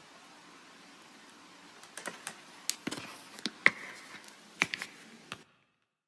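A run of about nine irregular sharp clicks over three seconds, like keys being pressed, after which the sound cuts off abruptly to dead silence.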